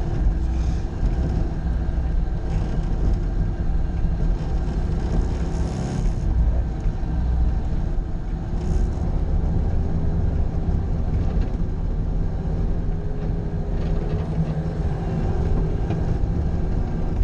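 Bobcat skid-steer loader's diesel engine running steadily under load, with a whine that wavers in pitch in the later part.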